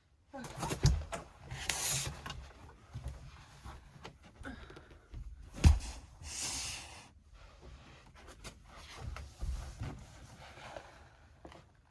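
Knocks and scraping as a wooden RV dinette is taken apart by hand: a few irregular thumps, the loudest about six seconds in, with two short scraping rushes between them.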